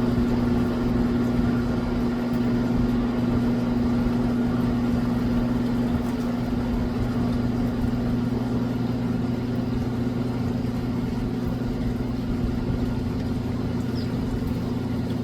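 A steady, low mechanical hum with an even pitched drone that does not change. A faint, short high chirp comes near the end.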